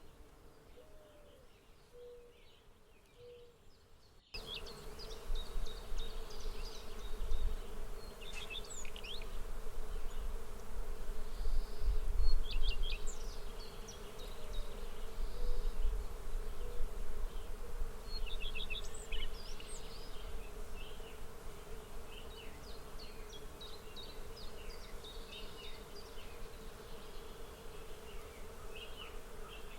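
Outdoor nature ambience: a steady drone of buzzing insects, with many short bird chirps over it. About four seconds in, the sound cuts abruptly to a louder take, and a low rumble rises and falls through the middle.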